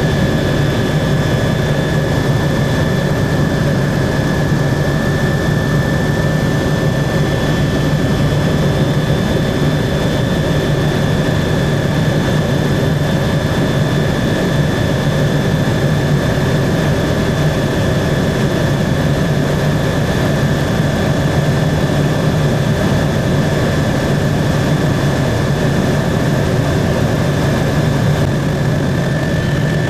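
Helicopter in steady cruise flight, heard from inside the cabin: a constant high whine with two thin tones over a strong low drone.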